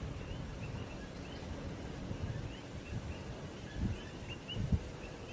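Small birds chirping repeatedly in short, high, hooked notes over a low rumbling background, with two dull thumps a little under a second apart near the end.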